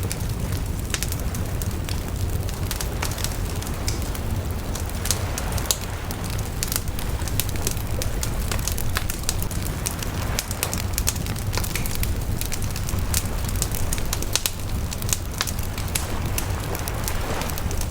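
Wood fire burning steadily, with frequent irregular crackles and pops over a low rushing rumble of the flames.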